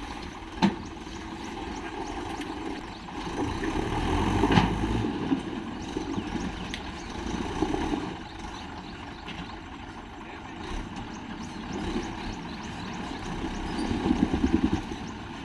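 Tractor engine running, with a sharp knock about half a second in, a louder low surge around four to five seconds in, and a fast rattle near the end.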